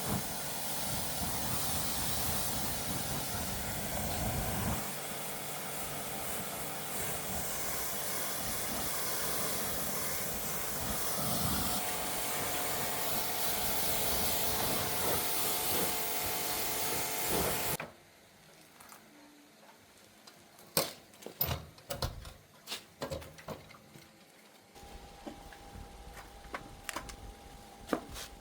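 A machine or power tool runs with a steady hiss, then cuts off suddenly. Scattered sharp clicks and taps follow.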